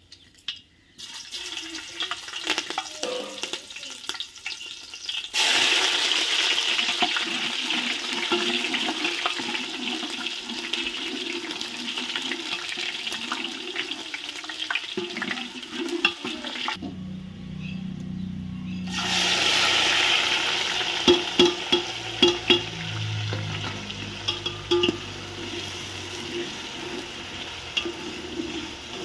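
Food frying in hot oil in an aluminium pot: a loud sizzle that starts about five seconds in, breaks off briefly past the middle, then comes back. As it comes back, a steel spoon stirs and scrapes the pot with several sharp clinks against its side.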